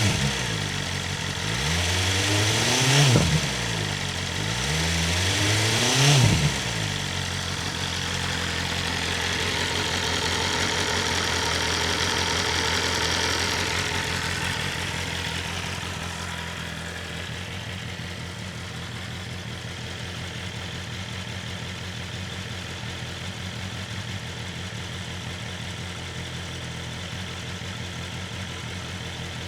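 BMW S1000RR inline-four through its Akrapovic exhaust: two quick throttle blips, rising and falling in pitch, then a steady idle that settles slightly quieter about halfway through.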